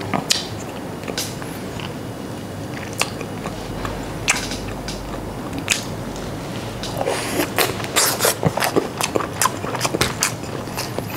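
A person eating close to a clip-on microphone: biting and chewing with wet mouth clicks, scattered at first and coming thick and fast in the second half.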